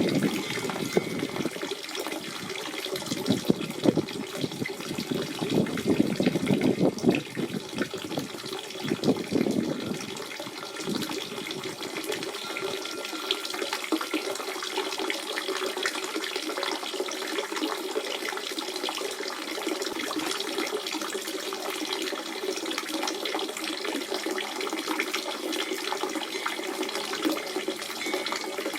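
Natural spring water running and gurgling, louder and choppier over the first ten seconds, then settling into a steadier, lighter flow.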